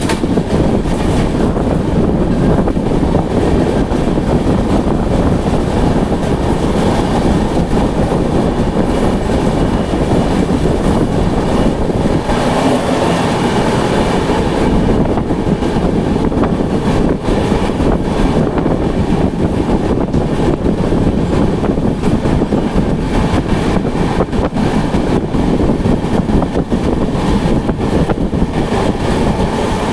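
Duronto Express passenger train running steadily at speed, a loud, even noise of the wheels on the rails.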